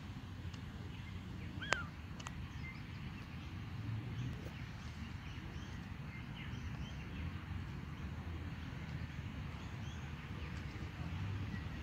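Faint, scattered bird chirps over a steady low background rumble, with one short, sharp chirp a little under two seconds in.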